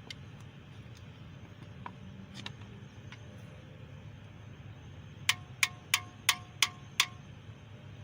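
A hammer striking metal six times in quick succession, about three blows a second, each blow ringing briefly, after a few light clicks of tools being handled.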